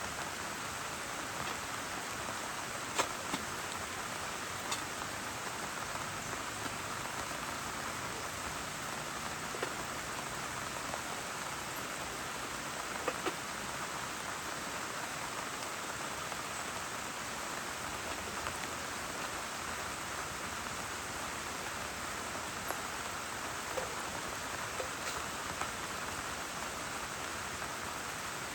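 Steady rainfall, with scattered louder drops striking a surface as single sharp ticks.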